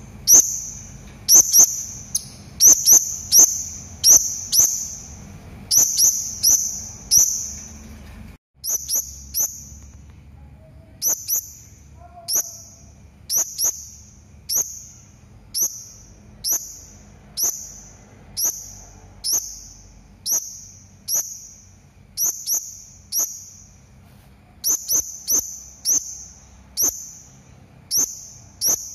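Serindit (hanging parrot) calls: short, sharp, high-pitched shrieks repeated about one to two a second, often in quick pairs or triplets. This is a lure call played to make other serindits call back. A faint low background hum drops out about eight seconds in.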